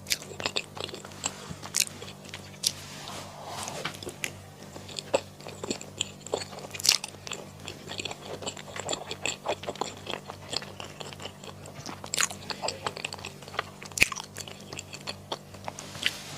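Close-miked eating sounds: a person biting and chewing food, with frequent short, irregular mouth clicks and smacks over a faint steady low hum.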